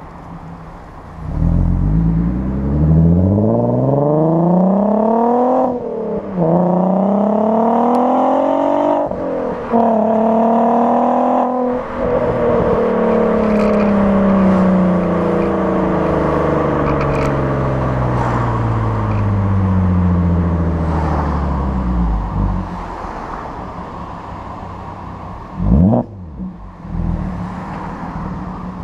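Mk5 Golf R32's 3.2-litre VR6 engine, breathing through a decatted Powerflow exhaust, accelerating up through the gears. Its pitch rises steadily, then drops sharply at a gear change about 6 and 9 seconds in. After about 12 seconds the pitch falls slowly as the car slows off the throttle, and near the end a quick rev blip rises and falls before the engine settles lower.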